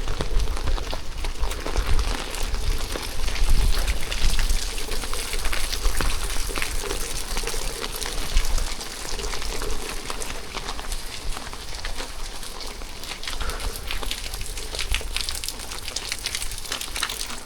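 Steady rain falling, with many sharp drop hits over a constant hiss. A low rumble comes and goes through the first half.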